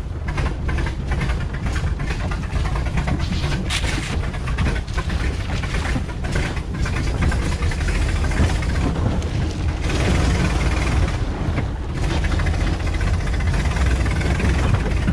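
Jeep CJ7 running over rough ground, its engine rumbling steadily while the body and suspension rattle and knock.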